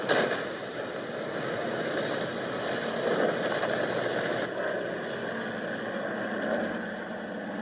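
Aircraft engine droning steadily with a rushing noise of air, after a sharp hit right at the start.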